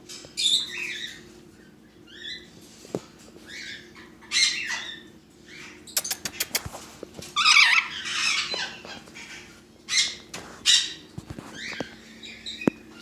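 Captive parrots squawking and screeching in harsh, repeated calls, with loud bursts spread through and a quick run of sharp clicks about six seconds in, over a steady low hum.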